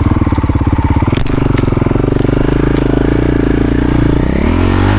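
Motorcycle engine running at low revs with distinct, slow firing pulses, then picking up revs about a second in and rising in pitch again near the end as the bike pulls away under throttle.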